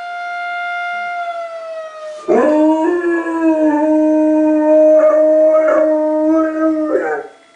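Tornado warning siren holding a steady tone that slides lower, then a dog breaks into one long, loud howl about two seconds in, holding its pitch with slight wavers for nearly five seconds before it stops near the end.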